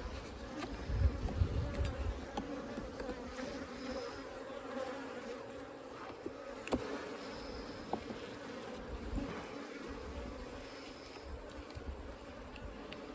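Africanized honey bee colony buzzing steadily in an open hive, with a few light clicks and knocks.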